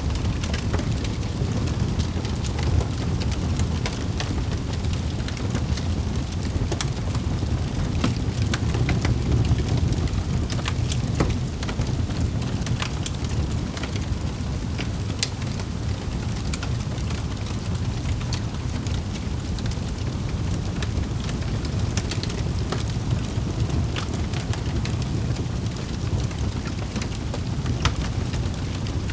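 Wood fire crackling in a fireplace: a steady low rumble of flame with frequent sharp pops and snaps scattered irregularly throughout.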